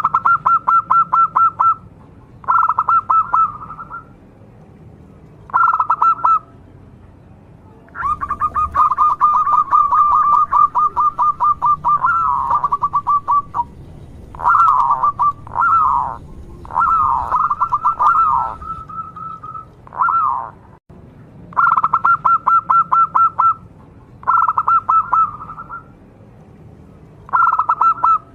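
Zebra dove (perkutut) singing loudly in short bursts of rapid staccato cooing notes, a phrase every few seconds. About eight seconds in comes one longer run of notes, followed by a few falling calls.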